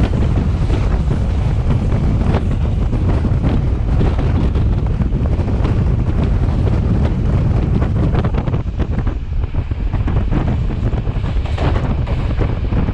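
Wind buffeting the microphone over the steady low rumble of a Class S13 diesel multiple unit running along the line, with irregular knocks and rattles.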